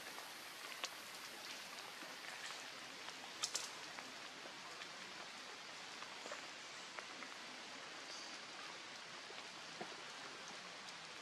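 Light rain falling on forest foliage and leaf litter: a steady hiss with scattered drips, the loudest a sharp tap about three and a half seconds in.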